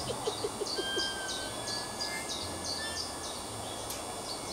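A songbird singing a quick run of repeated high notes, about four a second, which stops about two and a half seconds in, over steady outdoor background noise.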